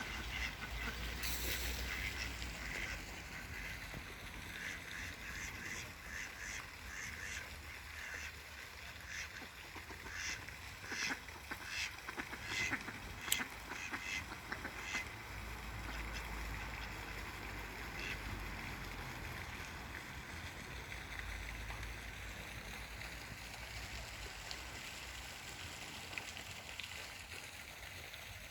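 Birds calling: a run of short, rapid calls from about five to fifteen seconds in, over a steady low rumble.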